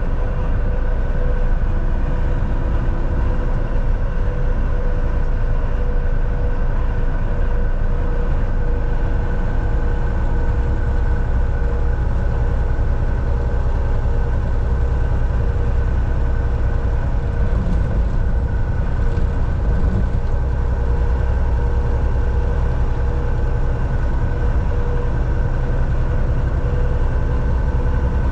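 Volvo VNL 760 semi truck cruising, heard from the driver's seat inside the cab: a steady diesel engine drone and heavy road rumble with a faint steady whine on top.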